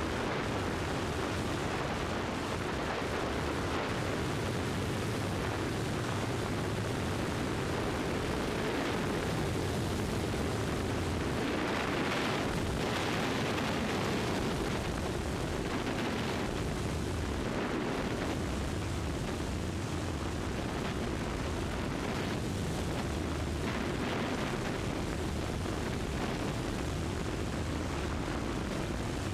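Cessna 172's piston engine and the rush of air, a steady drone heard inside the cabin.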